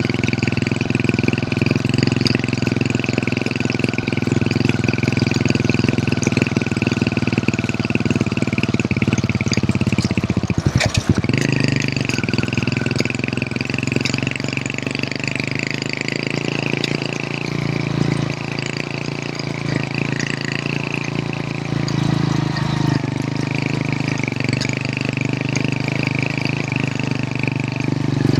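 Hero Honda CD100's small four-stroke single-cylinder engine running steadily under way. About 11 seconds in the revs dip briefly, as in a gear change or a roll-off of the throttle, then it settles back to a steady run.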